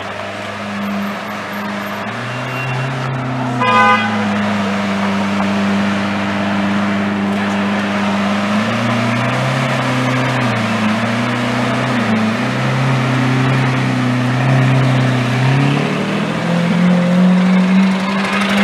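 Lamborghini Aventador's V12 engine running at low revs as the car creeps through traffic, its note stepping up and down with light throttle. A short car-horn toot about four seconds in.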